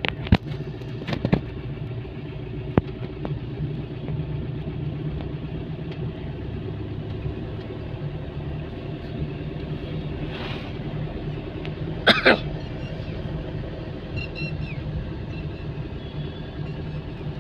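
Car on the move: steady low road and engine rumble, with a few knocks in the first seconds and one sharper knock about twelve seconds in.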